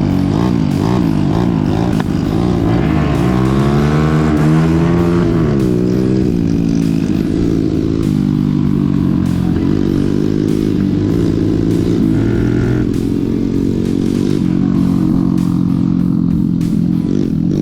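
Small-displacement mini-bike motorcycle engines being ridden, revving up and dropping back repeatedly as the riders work through the gears.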